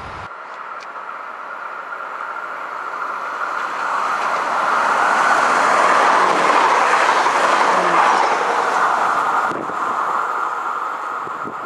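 Regional passenger train running through a station, its wheels on the rails growing louder as it comes up and passes close by. The sound peaks about halfway through, drops off sharply near the end and fades as the train moves away.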